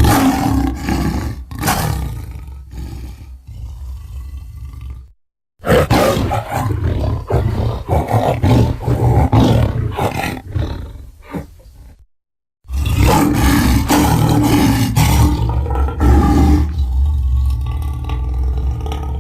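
Three separate roars made from lion recordings, each several seconds long, with dead silence between them. Each one starts loud at once and then trails off.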